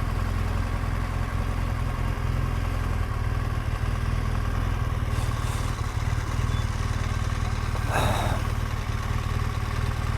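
BMW R1200GSA's boxer-twin engine running at low speed, steady and even, as the bike is moved into a parking spot. A brief clatter sounds about eight seconds in.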